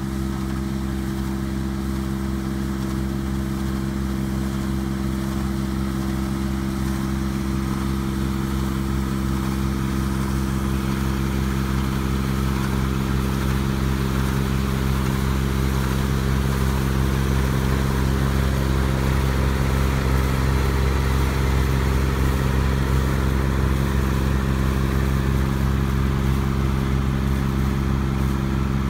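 Rice combine harvester's engine running steadily, with a rushing noise from the machine above it, getting slowly louder.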